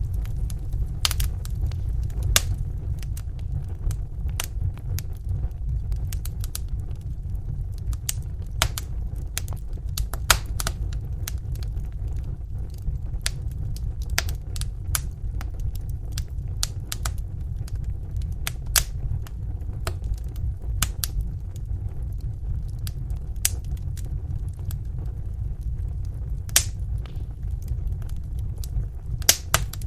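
Wood fire in a fireplace crackling, with irregular sharp pops, a few louder than the rest, over a low steady rumble.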